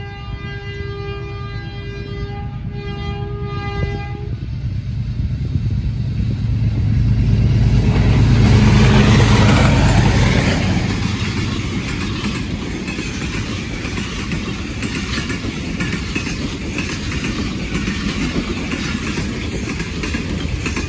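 Pakistan Railways PHA-20 (GE U20C) diesel-electric locomotive sounds two horn blasts, then its engine runs louder as it draws near and passes, loudest about ten seconds in. The passenger coaches follow, rolling by with wheel clatter on the rails.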